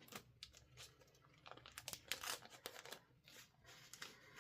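Faint crinkling and rustling of a plastic snack pouch being handled, in a series of short, scattered rustles.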